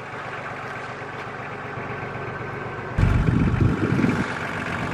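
A mud-covered off-road 4x4's engine idling steadily. About three seconds in, a louder low rumble lasting about a second comes in over it.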